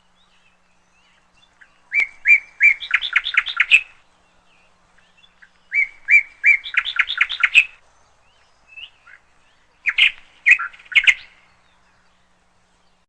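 Canary chirping in three short phrases of rapid repeated high notes, a few seconds apart.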